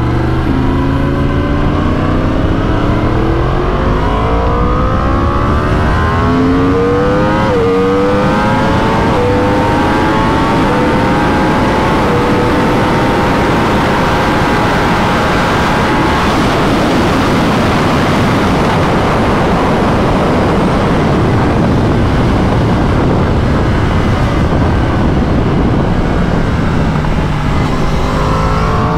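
2021 Yamaha R1's crossplane inline-four, through a full titanium Akrapovic exhaust with the dB killer fitted, accelerating hard. Its pitch climbs and drops back at each of several upshifts. From about halfway through, a heavy wind rush at high speed covers the engine.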